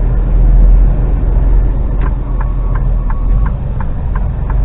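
Articulated lorry's diesel engine running with a steady low drone as it drives. About two seconds in, a regular clicking starts, roughly three clicks a second.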